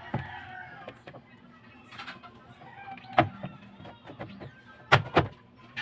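Sharp knocks and clacks of hard parts being handled during washing machine repair work: one just after the start, one a little past the middle, and a loud close pair near the end.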